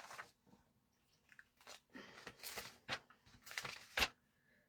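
Scattered short rustles and clicks, about half a dozen, of craft items being handled and searched through.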